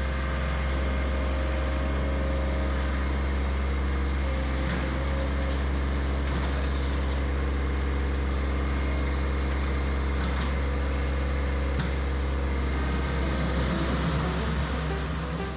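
Diesel tractor engine running steadily at an even speed, with a few faint knocks over it.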